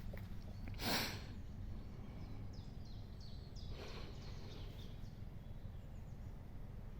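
Outdoor background with a steady low rumble; a short hiss about a second in, then a bird chirping a run of short, falling notes.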